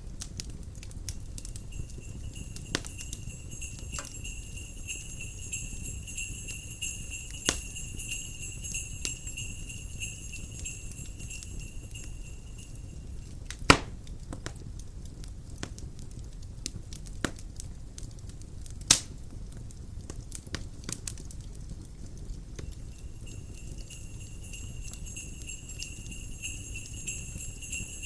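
Jingle bells ringing steadily over a crackling wood fire. The bells die away about twelve seconds in and return near the end. The fire gives scattered pops throughout, with two louder pops about 14 and 19 seconds in.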